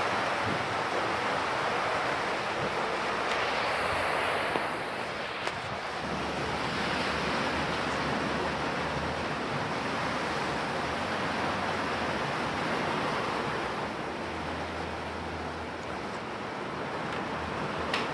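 Rain falling, a steady rushing hiss that eases a little about five seconds in.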